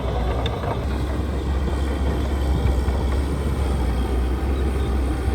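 Heavy diesel construction machinery running steadily, a deep, constant engine rumble with clatter and grinding noise over it.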